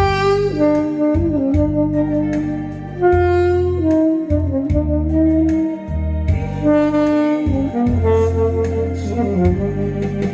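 Saxophone duet playing a slow melody in long held notes over a backing track with bass and a steady beat.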